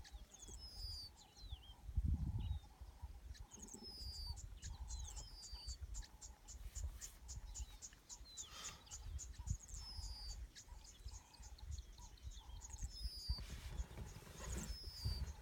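Several small birds chirping and twittering, with many short high calls and quick descending whistles repeated throughout and lower notes mixed in. A low, uneven rumble sits underneath.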